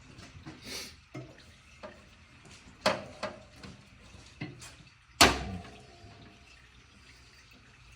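A handful of sharp metal knocks and clanks, the loudest a little past five seconds with a short ring after it, as parts or tools are handled.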